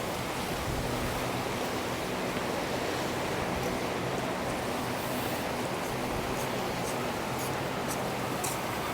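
Steady wash of ocean surf. In the second half, light ticks come about twice a second.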